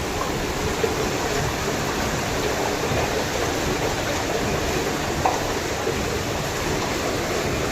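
Steady rush of floodwater flowing over a railway track, an even noisy roar with no breaks.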